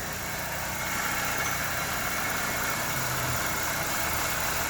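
LPG-converted car engine idling steadily just after being started. It runs with no more than its basic engine vibration and no marked rough-running, after a suspect wiring connector was re-soldered.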